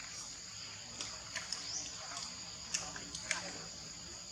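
Steady high-pitched drone of insects, cicadas or crickets, with a few sharp clicks and snaps and a brief high chirp about a second and a half in.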